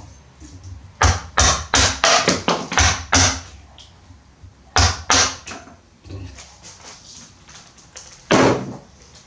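Sharp knocks of a tool striking wood, in irregular groups: about eight in quick succession, two more a second and a half later, and a single heavy one near the end, each with a short ring.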